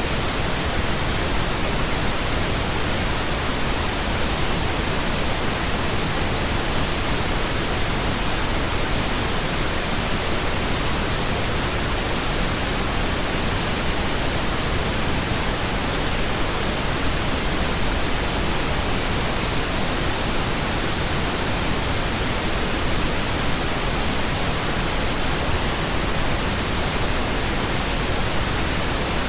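Pink noise: a steady, even hiss spread across low and high pitches alike, with no tones, rhythm or breaks.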